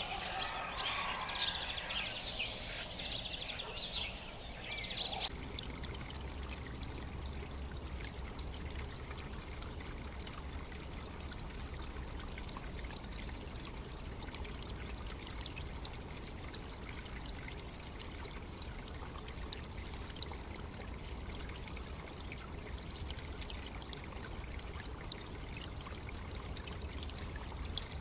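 Birds chirping for about the first five seconds, then running water, a steady rushing and trickling with a low rumble, to the end.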